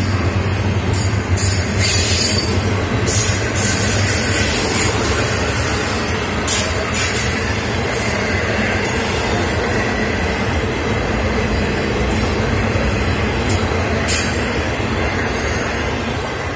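Florida East Coast Railway intermodal freight cars rolling past at close range: a steady rumble of steel wheels on rail, with brief high-pitched wheel squeals every second or two. The sound eases slightly near the end.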